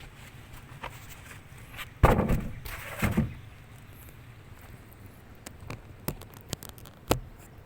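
Two loud thumps about a second apart, followed by scattered sharp knocks and clicks.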